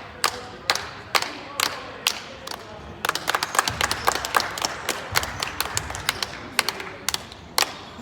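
Hand clapping: a single person's steady claps about twice a second, then from about three seconds in several people clapping together for a few seconds before it thins out again.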